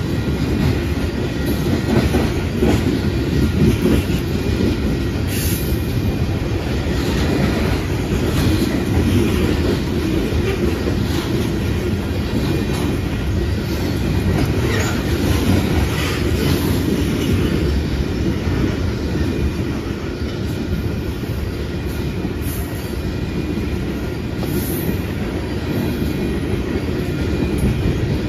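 Loaded coal cars of a freight train rolling past: a steady heavy rumble of steel wheels on rail, with irregular clicks over rail joints and a faint high wheel squeal.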